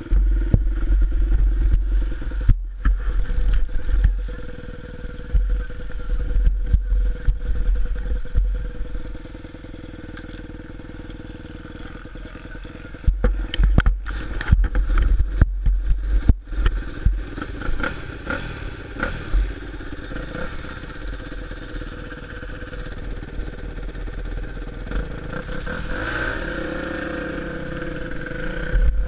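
Motocross bike engine running at idle, with knocks and low rumble from handling and wind on the mounted microphone. Near the end the engine revs up as the bike pulls away.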